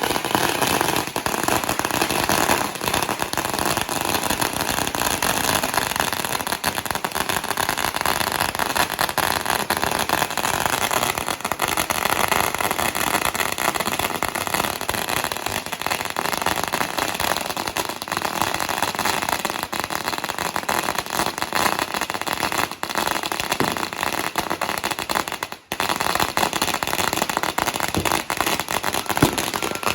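Firecrackers and fireworks going off in a dense, unbroken crackle of countless small pops, with a brief lull about 25 seconds in.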